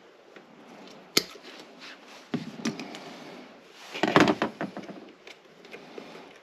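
Scattered knocks and clicks of objects being handled, with a sharp click about a second in and a louder clatter about four seconds in.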